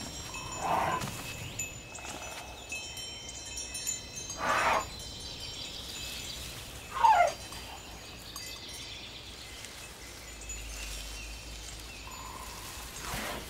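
Wind chimes ringing softly, with a few short sounds over them. The loudest is a brief call that falls in pitch about seven seconds in.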